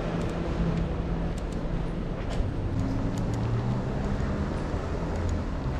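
Street traffic: a motor vehicle's engine running steadily with a low hum that shifts slightly in pitch, over a background of road noise, with a few faint light clicks.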